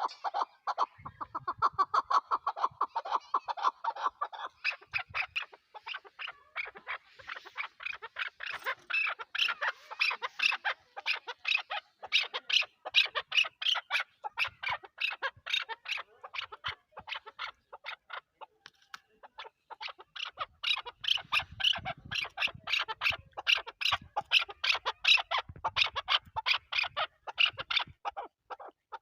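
Chukar partridge calling: a long series of rapid, repeated chuck notes, several a second. The notes sit lower for the first few seconds, then climb higher, and they ease into a quieter lull in the middle before picking up again.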